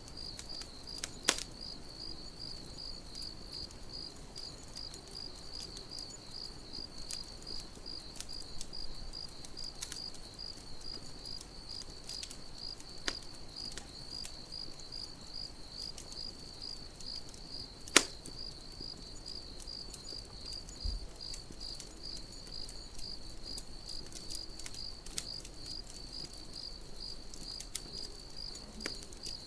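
Crickets chirping in a steady, even rhythm, with a campfire crackling: scattered sharp pops, two of them loud, one a little over a second in and one about halfway through.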